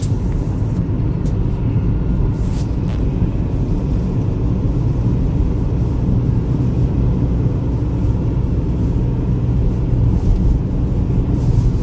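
A car driving along: a steady, even low rumble of engine and road noise.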